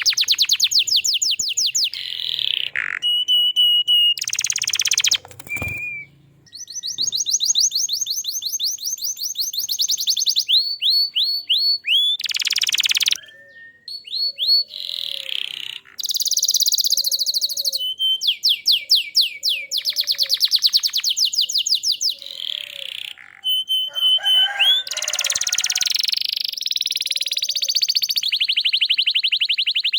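Domestic canary singing a long, varied song: fast rattling trills, runs of repeated sweeping notes and sustained high notes, with brief pauses between phrases.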